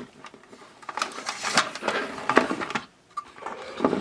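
Handling of a power cord and small parts on a workbench: a quick run of clicks and rattles, a short pause near the end, then a few more clicks.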